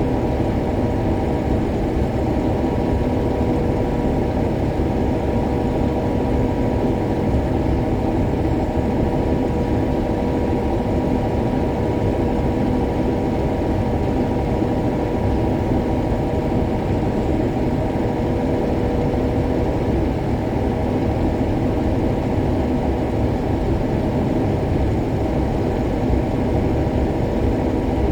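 Case IH Axial-Flow 7150 combine running steadily while harvesting soybeans, heard from inside the cab: an even, unbroken drone of the engine and threshing machinery, with a faint steady whine held throughout.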